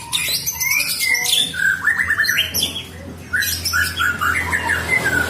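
White-rumped shama (murai batu) singing a rapid, varied run of whistled notes and sharp high chirps, with a brief dip about three seconds in.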